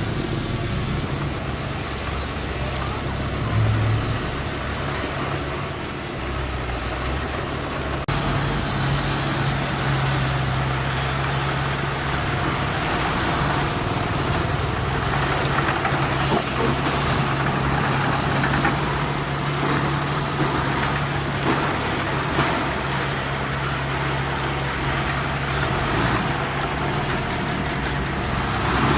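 Heavy diesel engine of earthmoving machinery running steadily, with a constant low engine note.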